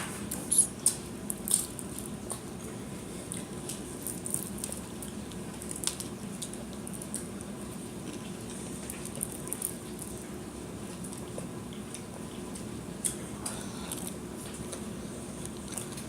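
People chewing food close to the microphone: scattered small clicks and wet mouth sounds, thickest in the first couple of seconds, over a steady low hum.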